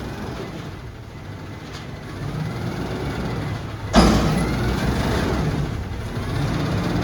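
Front-loader garbage truck's diesel engine running, getting louder about two seconds in, with one sharp metallic bang about four seconds in as it works a dumpster.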